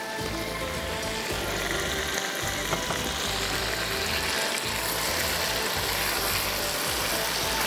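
Chicken pieces sizzling and frying in oil in a karahi as they are stirred and browned (bhuna); the sizzle grows brighter about three seconds in. Background music plays underneath.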